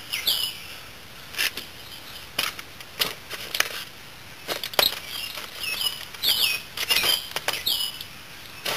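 A bird chirping: short high calls in a few quick clusters, with scattered sharp clicks between them.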